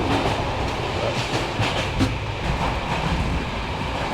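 Passenger train running on the rails, heard from inside a carriage: a steady low rumble with a few wheel clicks over the rail joints.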